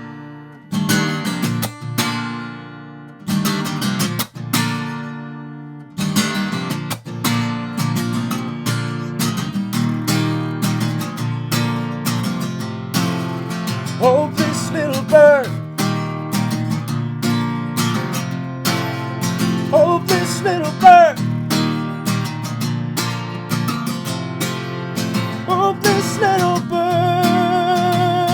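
Acoustic guitar instrumental passage: a few single strummed chords left to ring out, then steady fingerpicking from about six seconds in, with a wordless vocal melody joining at times.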